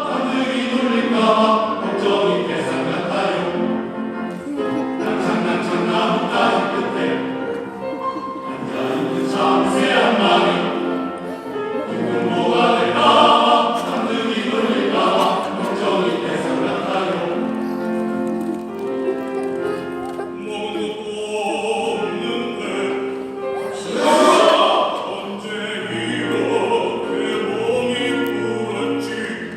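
Men's choir singing in several parts, with held notes and shifting harmonies.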